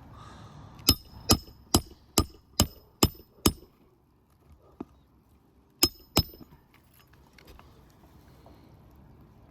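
Hammer driving roofing nails into asphalt shingles: seven quick, ringing strikes at about two a second, then two more a couple of seconds later.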